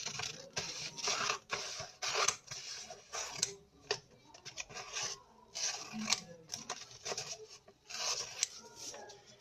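A sheet of A4 paper being worked by hand: a series of rasping paper strokes, roughly one or two a second.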